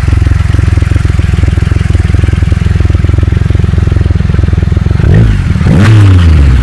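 Motorcycle engine idling with a fast, even low pulse, then revved near the end, its pitch climbing and falling back.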